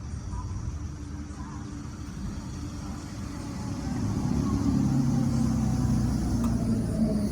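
Low rumble of a vehicle engine, growing louder about halfway through.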